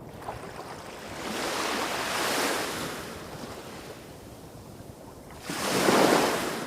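Small waves breaking on a shore: one wash of surf about a second in, then a sharper, louder break near the end. A low rumble underneath comes from waves hitting rocks farther off.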